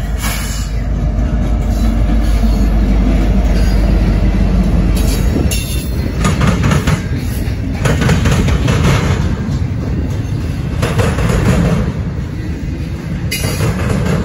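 Norfolk Southern freight diesel locomotive passing close with a deep engine rumble, followed by double-stack intermodal cars rolling by, their wheels clattering in repeated swells as each car's trucks go past.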